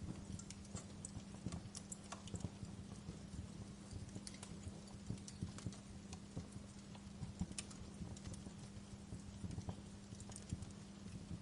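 Wood fire burning in a fireplace: irregular crackles and sharp pops of burning logs over a low rumble of the flames.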